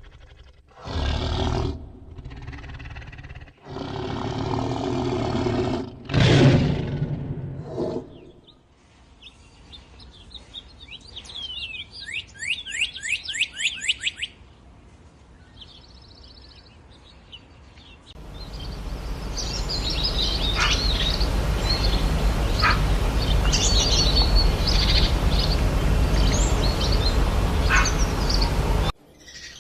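Wild animal sounds in short cut-together takes: loud animal calls in the first eight seconds, then a quick run of falling, chirping bird notes. In the second half, birds chirp over a loud, steady rushing noise that stops suddenly near the end.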